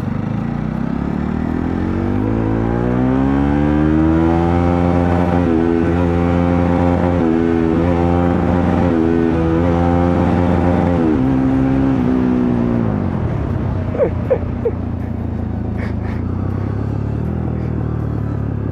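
Bajaj Pulsar NS 125 single-cylinder engine revved hard in low gear. Its pitch climbs for about three seconds and is held near full rpm for several seconds, with brief dips. It then falls away as the throttle closes, followed by three short beeps and a lower, steady engine note.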